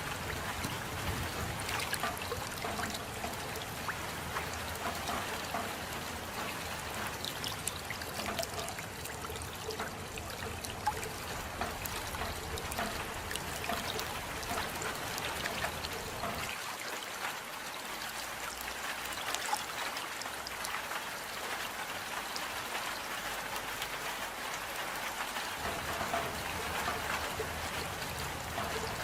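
Steady rain falling, with many small separate drop sounds. For about nine seconds after the middle the deep low part of the sound drops away, then returns.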